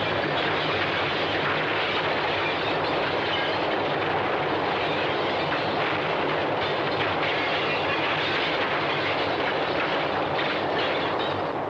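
Train running on the rails: a steady, even clatter of wheels and cars.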